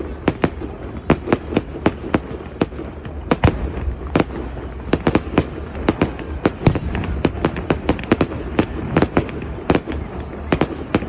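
Fireworks display: a rapid, irregular run of sharp bangs from exploding aerial fireworks, two or three a second, over a continuous rumble of further bursts.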